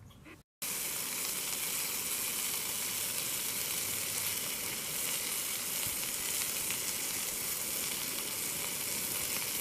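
Bacon sizzling in a frying pan, a steady hiss that starts just after a short break near the start.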